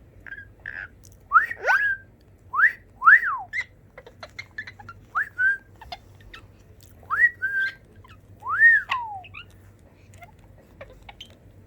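Green pet parrot whistling: about five short phrases of clear, rising and falling whistled notes, each a second or less long, with faint clicks in between.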